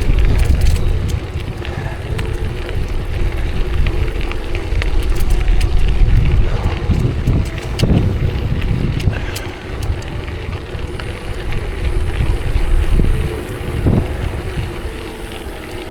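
Heavy wind buffeting on the microphone from riding a bicycle along the trail, a steady loud rumble with scattered clicks and rattles from the bike.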